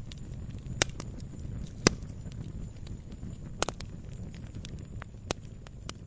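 Wood fire crackling: irregular sharp pops from the burning logs, the loudest about two seconds in, over a low steady rumble of the flames.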